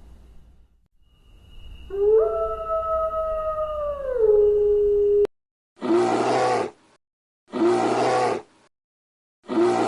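A dog howling: one long howl that rises in pitch, holds and slides back down. It cuts off suddenly, and a different loud, harsh call follows, repeated three times at even intervals.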